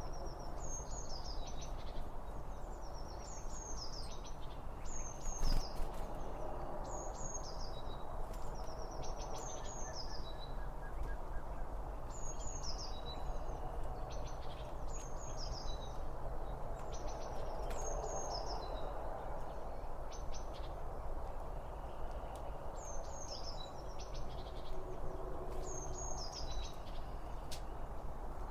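A songbird repeating a short, high call that falls in pitch, about once a second with a brief pause past the middle, over steady low background noise.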